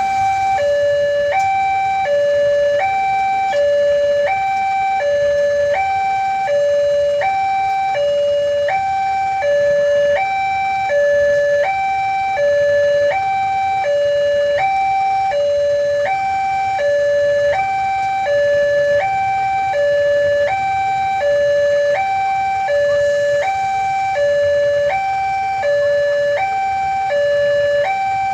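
Indonesian railway level-crossing warning alarm sounding: an electronic two-tone signal alternating steadily between a higher and a lower tone, about one high-low pair a second, warning that a train is approaching.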